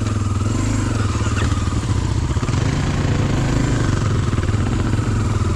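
Dirt bike engine running at low, fairly even revs.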